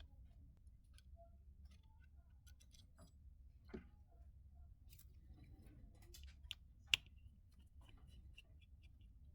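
Faint, scattered clicks and taps of small repair tools against a smartwatch's case and internal parts, with a sharper click about seven seconds in, over a low steady hum.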